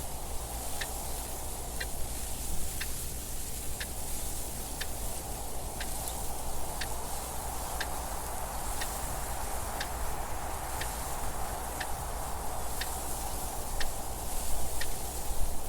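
Mechanical clock ticking evenly, one tick a second, over a steady background of wind noise.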